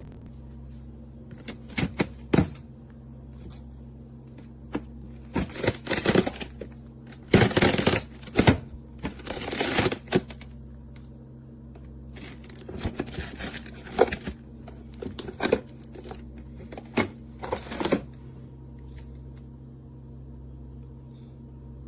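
A run of clicks, knocks and short rustling, scraping bursts from objects being handled, over a steady low electrical hum. The clicks stop about 18 seconds in, leaving only the hum.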